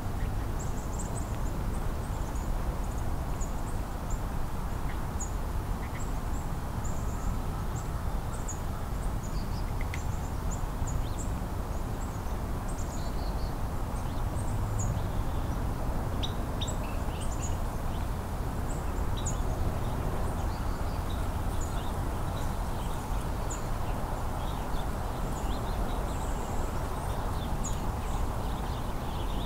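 Many short, high bird chirps and calls scattered throughout, over a steady low rumble.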